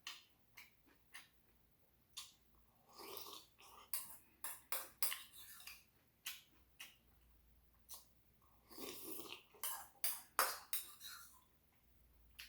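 A person eating rice cake ramen close to the microphone: many short, sharp mouth clicks and smacks of chewing, with two longer slurps, about three seconds in and again near nine seconds.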